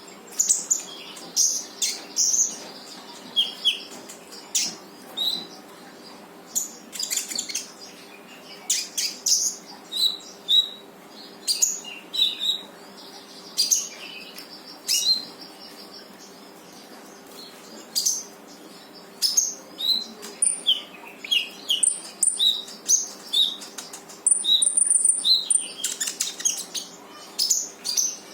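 Konin songbird singing energetically in its 'tembakan' style: a rapid run of sharp, high chirps and short whistled phrases with brief pauses, and a high buzzing trill a few seconds before the end.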